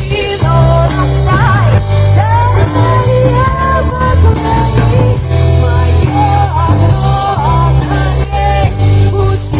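A band playing a rock song, with a heavy, steady bass and a wavering melodic lead line over it.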